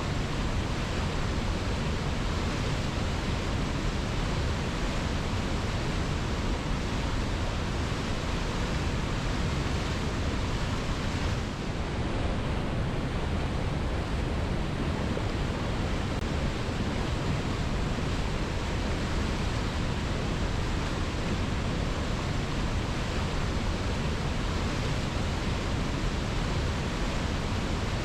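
Waterfall rushing steadily: a constant, even roar of falling water with no other sounds, dipping slightly for a moment near the middle.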